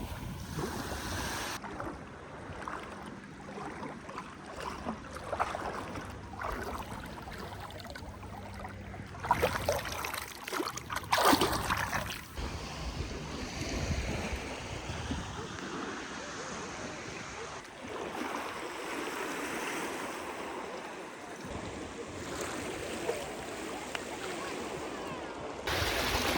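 Sea waves washing on a sandy shore, with some faint voices. The ambience changes abruptly several times, and there are louder swells about ten seconds in.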